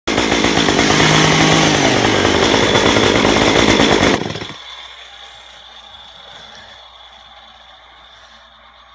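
Chainsaw engine running loudly, then dying away about four seconds in, leaving only a faint steady background.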